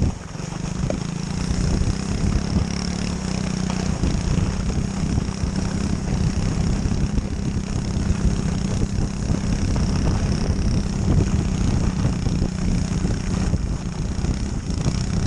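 Pit bike engine running at a steady speed, with a constant drone, apart from a brief dip right at the start.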